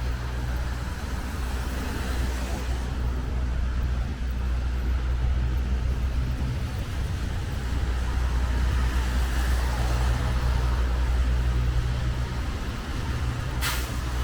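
Steady road traffic on a city street, a deep rumble with a haze of noise over it. A short, sharp burst of noise comes near the end.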